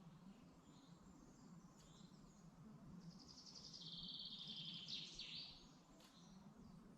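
Faint woodland birdsong: a small bird sings a rapid, high trill from about three seconds in until about five and a half seconds, with a few faint chirps around it, over a steady low hum.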